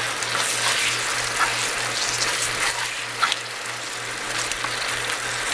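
Thin-sliced pork belly in a spicy gochujang sauce sizzling in a hot pan as it is stir-fried and turned with a wooden spatula, with a few soft clicks and scrapes of the spatulas against the pan. A low pulsing hum sits underneath.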